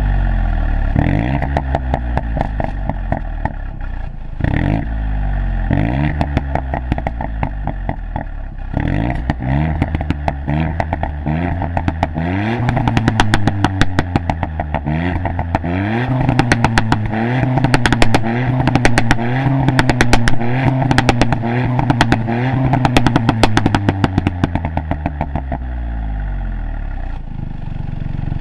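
Mk8 Ford Fiesta ST's 1.5-litre three-cylinder turbo engine being revved repeatedly through its exhaust, the note rising and falling with each blip. Pops and crackles come with the revs, growing dense through the middle and easing off near the end.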